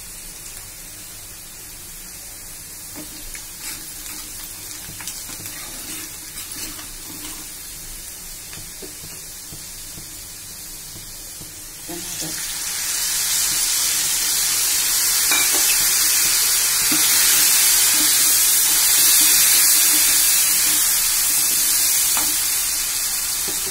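Onions frying in hot oil in a pan, a steady sizzle with a few clicks of a spoon against the pan. About twelve seconds in, chopped tomatoes drop into the hot oil and the sizzle jumps much louder to a strong hiss, which eases a little near the end.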